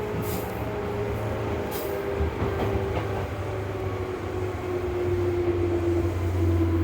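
Onboard running sound of a Seibu 101-series resistance-controlled electric train: the drive whine falls steadily in pitch over a low steady hum, as the train slows. Two brief high clicks come in the first two seconds.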